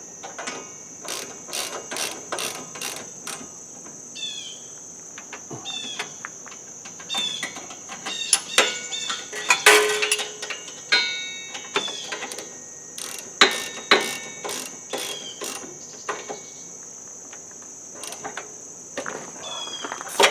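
Hand ratchet wrench clicking in short runs as bolts are tightened while refitting a tractor's alternator and fan belt parts, with sharp metal clinks of tools and parts in between; the busiest stretch is about ten seconds in.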